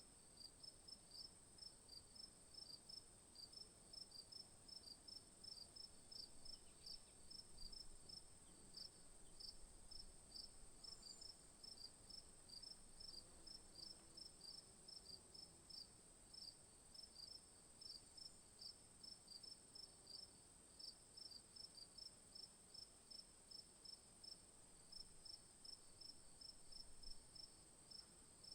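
Faint chorus of insects such as crickets: a steady high-pitched trill with a repeating high chirp, about two to three chirps a second.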